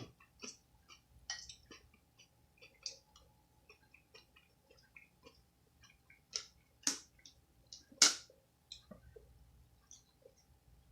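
Close-up eating sounds: chewing with many small irregular mouth clicks, and three louder sharp clicks about six and a half, seven and eight seconds in.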